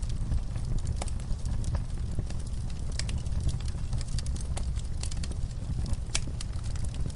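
Wood fire in a camp fire pit crackling and popping: irregular sharp pops and snaps from the burning logs and coals, over a steady low rumble.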